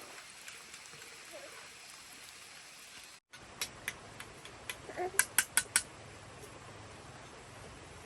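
A quick run of sharp clicks or clinks, the four loudest close together about five seconds in, over a steady faint hiss.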